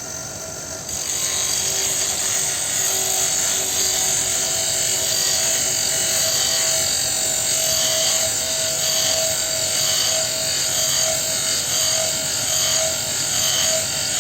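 Bench grinder running with a wood chisel held against the grinding wheel to sharpen it: a steady motor tone under a harsh grinding hiss. The grinding gets louder about a second in and then swells and fades in a slow rhythm as the chisel is worked across the wheel.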